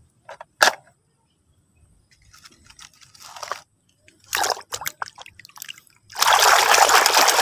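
Water splashing and sloshing in short bursts as a muddy toy car is washed by hand, then a steady rush of water starting about six seconds in.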